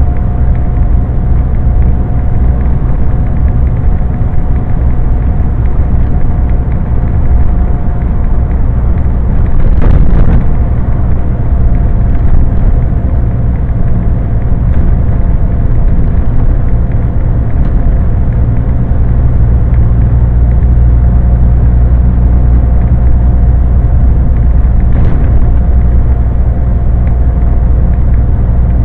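Scania lorry on the move: a steady, loud low drone of engine and road noise with a thin steady whine over it, and a brief knock about ten seconds in and another near the end.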